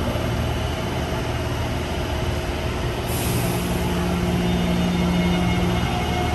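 A train running in a rail station, with a short hiss of air about three seconds in and a steady low hum from then on.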